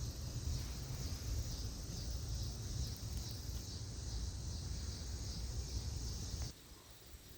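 Steady outdoor background noise: a low rumble under a high, even hiss, both cutting off suddenly about a second before the end.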